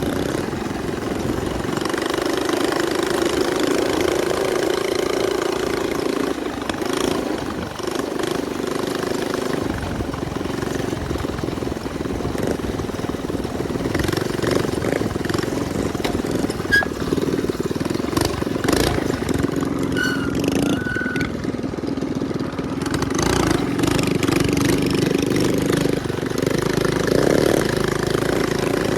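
Minibike's small single-cylinder engine running under way, its pitch wavering up and down as the throttle changes.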